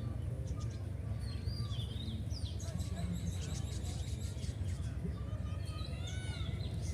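Birds chirping in short, curving calls, twice in clusters, over a steady low rumble.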